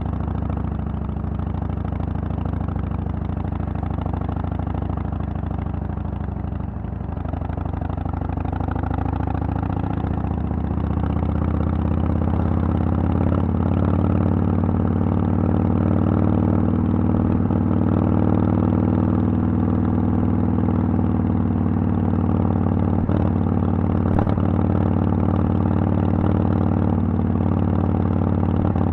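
Harley-Davidson Sportster XL883L's 883 cc V-twin running through Vance & Hines Twin Slash mufflers. Its note drops a little about six seconds in, then rises steadily over several seconds and holds steady after that.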